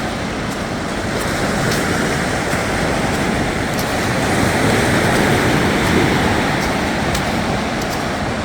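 Sea surf washing onto a sandy beach: a steady rush of breaking waves that swells and eases, about halfway through at its loudest, with wind rumbling on the microphone.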